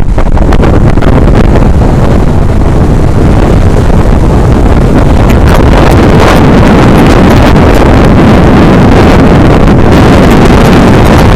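Loud, steady wind buffeting on an action camera riding on a moving truck, with road and engine rumble underneath.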